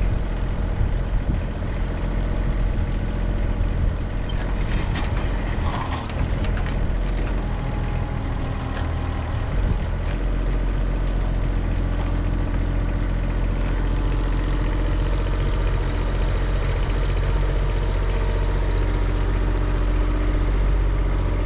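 Mini excavator engine running steadily, with a few knocks and scrapes from the machine about four to seven seconds in.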